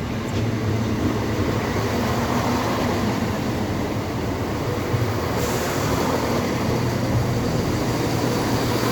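Class 170 Turbostar diesel multiple unit running in at the platform close by, its underfloor diesel engines running steadily. A hiss joins about halfway through.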